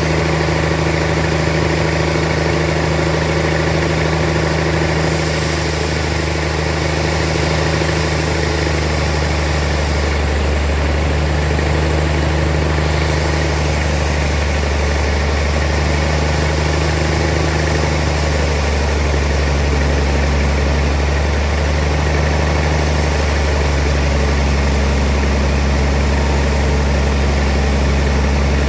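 Sawmill machinery engine running steadily with a deep, even hum. The low hum grows a little stronger about two-thirds of the way through.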